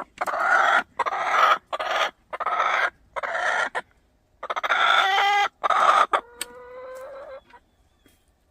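An upset hen squawking loudly and over and over, each harsh call about half a second long, ending in a quieter, drawn-out call.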